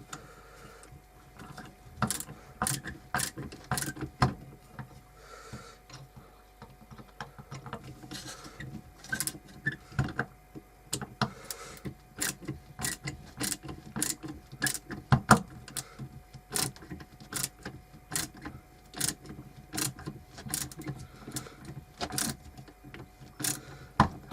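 A flathead screwdriver turning an old, worn wood screw by hand: a long run of irregular sharp clicks and scrapes, roughly one to two a second, as the blade catches and slips in the screw head.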